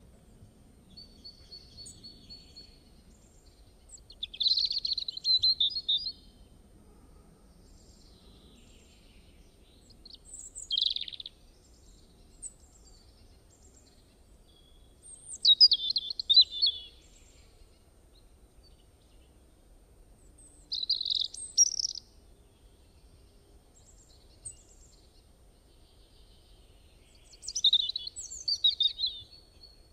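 A songbird singing: about five short bursts of quick, chirping song, spaced several seconds apart, over faint background hiss.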